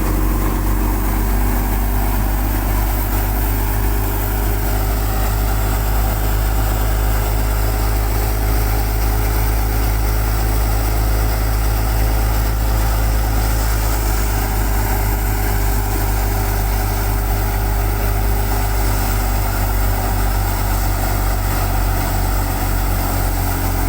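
Russian-made tractor's diesel engine running steadily under load, driving a thresher, with the thresher's steady mechanical noise over it.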